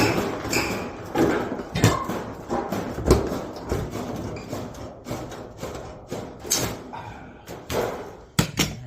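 Sheet metal being cut with hand tin-snip shears and handled, giving irregular metallic clicks, knocks and thumps. The shears are getting dull.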